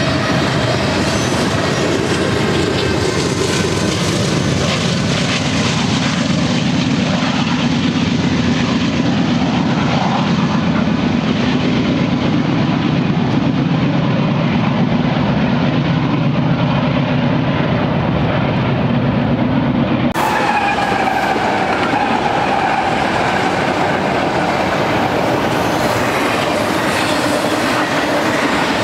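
Freight train cars rolling past on the rails: a steady, loud rumble of wheels with clickety-clack. About two-thirds of the way through it changes abruptly to a double-stack freight train on a curve, with a thin wheel squeal over the rolling noise.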